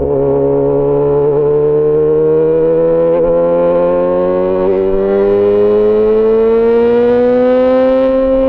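Yamaha XJ6 S's 600 cc inline-four engine through an SC-Project aftermarket exhaust, pulling in one gear as the bike accelerates, its note rising slowly and evenly.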